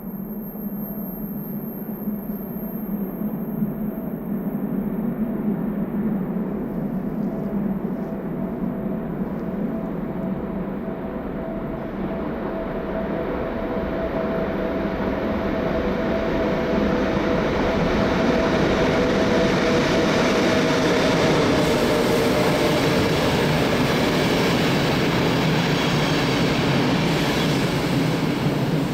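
A train running on the Semmering mountain railway, its steady rail rumble growing louder and brighter from about halfway through.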